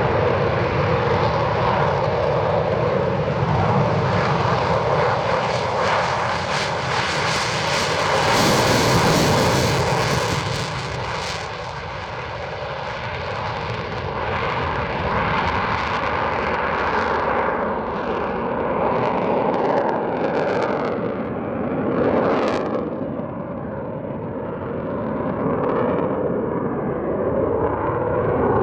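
Eurofighter Typhoon's twin turbofan jet engines at high power, a loud continuous rush that peaks about a third of the way in, then falls and swells again as the jet moves away.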